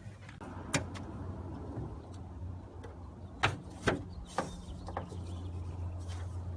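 Plastic push-pin clips of a car's hood underliner being popped out with a trim clip removal tool: about five sharp clicks, one near the start and the rest close together in the middle, over a steady low hum.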